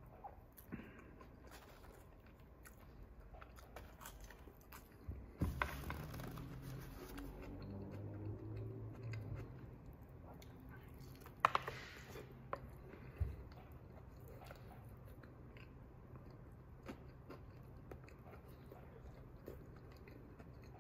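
Close-miked chewing of a crispy fried chicken and bacon sandwich: moist mouth sounds with scattered small crunches, and one sharper crunch about eleven and a half seconds in.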